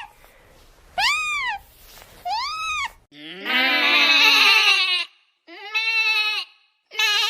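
Two short high calls that rise and fall in pitch, then, from about three seconds in, livestock bleating three times: one long wavering bleat, then two shorter ones.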